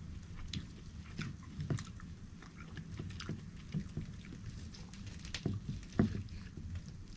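Scattered light clicks and knocks of small objects being handled, irregular and a few per second, over a steady low rumble.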